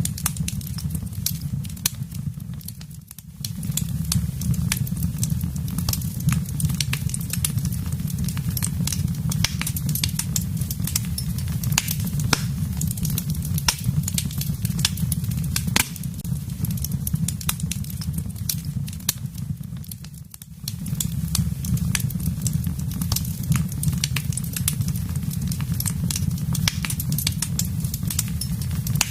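Wood fire burning in a fireplace: a steady low rumble of flame with dense, irregular crackles and sharp pops of burning wood. The level dips briefly twice.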